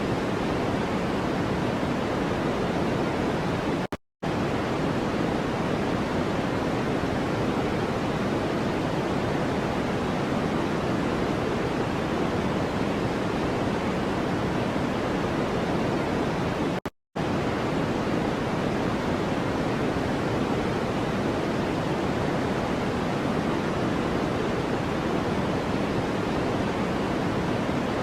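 A steady, even rushing hiss of a continuous noise track, deeper and fuller in the low end than pure white noise. It cuts out to silence for a split second twice, about four seconds in and again about seventeen seconds in, then resumes unchanged.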